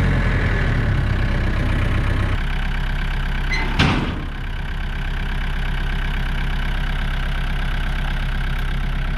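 Tractor engine idling, its revs dropping about two seconds in, with a single sharp metallic knock a little before halfway.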